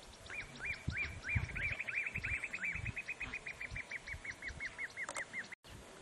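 A bird calling a long run of short, repeated notes that quicken where a second bird overlaps, then slow again and cut off abruptly near the end. Low thumps sound underneath.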